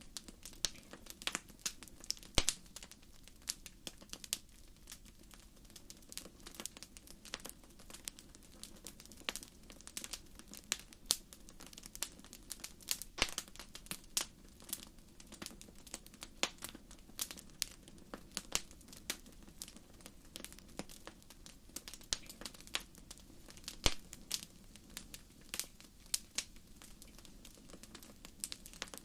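Wood fire crackling in a fireplace: irregular sharp pops and snaps, several a second, over a faint steady low rumble, with a few louder pops about two seconds in and near the end.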